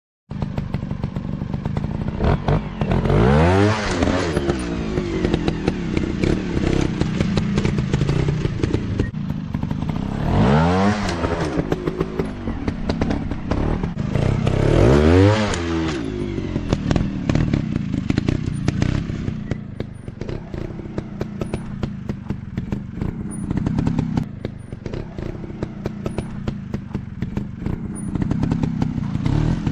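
Dirt bike engine running on a trail, revving up and falling back three times, with clattering and scraping throughout.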